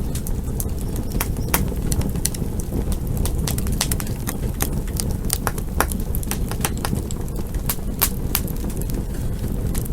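Campfire burning: irregular sharp crackles and pops of the wood, several a second, over a steady low rumble.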